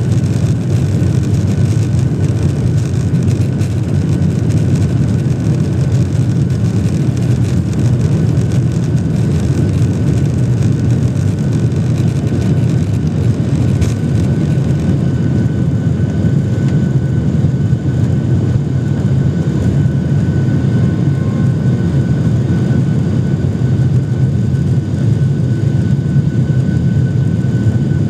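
Boeing 737-800's CFM56-7B jet engines running steadily, heard from inside the passenger cabin as a deep, even rumble. About halfway through, a thin steady whine joins it.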